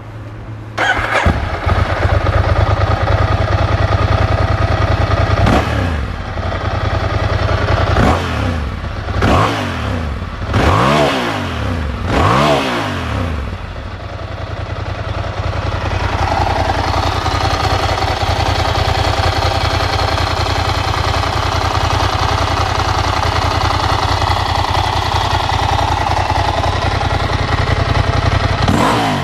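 Ducati Hypermotard 1100S air-cooled L-twin running through a full Termignoni exhaust. The engine comes in loudly about a second in and idles with a lumpy beat. Between about 5 and 13 s it is revved several times in quick blips that rise and fall, then it runs steadily at higher revs.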